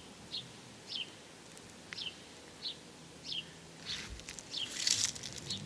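A bird repeating a short, high, falling chirp roughly every half-second to second. A brief burst of noise comes about four to five seconds in.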